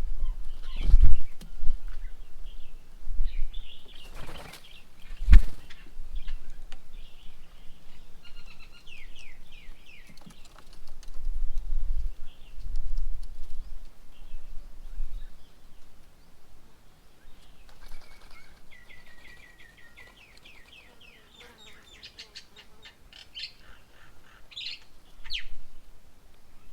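Birds chirping in quick runs of short notes, with a few sharp knocks among them, the loudest about five seconds in, and low rumbles.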